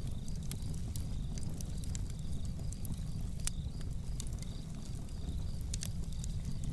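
Campfire burning, with the wood crackling in irregular sharp pops over a steady low rumble.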